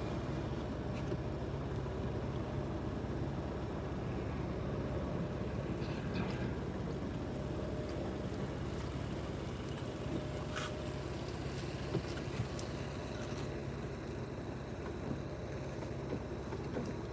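A Jeep's engine idling steadily, heard from inside the cabin as a low, even hum. A single sharp click sounds about ten seconds in.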